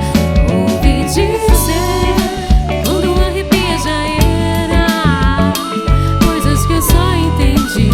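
Live band playing a song, with bass notes, drum beats and a melodic lead line that glides and bends in pitch.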